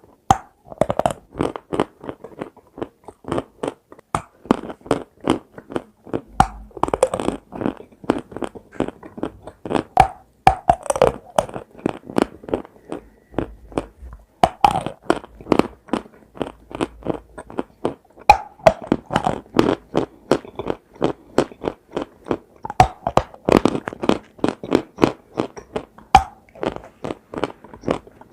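Close-up chewing of something dry and brittle: a quick run of sharp crunches, several a second, with louder bite-and-crush bursts every few seconds.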